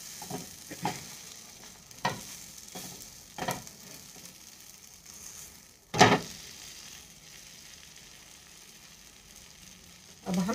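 Pav buns sizzling steadily as they toast on a hot iron tawa, with a few sharp knocks from the buns being handled on the pan, the loudest about six seconds in.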